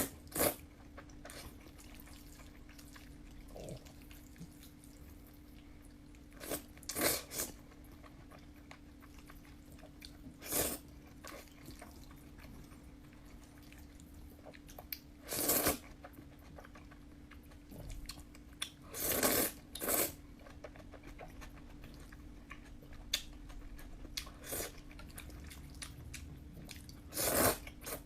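Close-miked eating of fried noodles: short, loud mouth sounds of biting and chewing every few seconds, some in quick pairs, over a faint steady hum.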